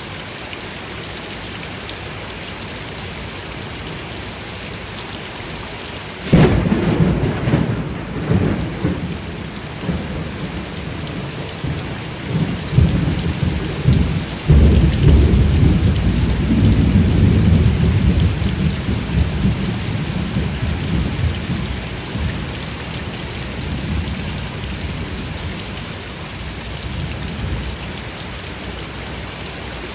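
Steady heavy rain, then a sudden loud thunderclap about six seconds in. A second surge comes about halfway, and the thunder rolls on as a long low rumble that slowly fades back into the rain.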